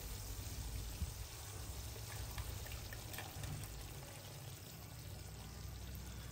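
Fried onion paste in hot oil sizzling faintly in a kadai while a wet ginger, garlic, green chilli and tomato paste is poured in from a bowl and scraped out with a silicone spatula, with a few soft taps.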